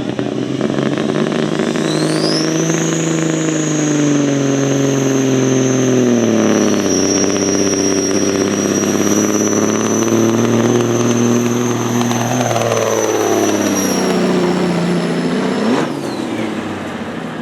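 Pulling vehicle's engine running at full power on a pull, with a high whine that climbs about two seconds in and holds. The engine pitch sags as the sled loads it, drops steadily near the end, and the sound cuts off suddenly as the run ends.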